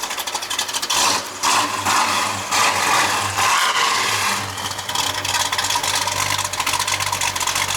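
Chevrolet Camaro V8 running with an open, loud exhaust. It surges louder several times in the first few seconds, then settles into a steady idle.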